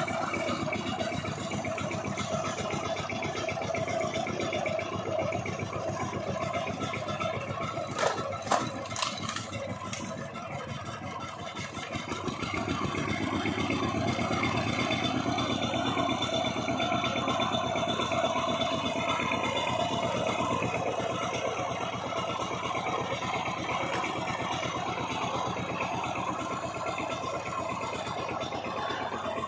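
Power tiller engine running steadily with a rapid mechanical clatter. A few sharp knocks come about eight to nine seconds in, the engine then eases briefly, and it runs louder again from about thirteen seconds.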